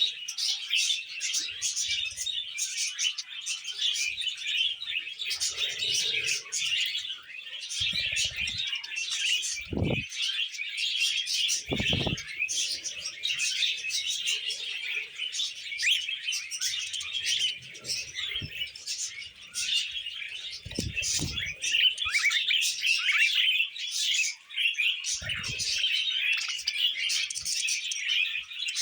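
Budgerigars chattering and warbling nonstop, many overlapping high chirps, with a few short low thumps scattered through.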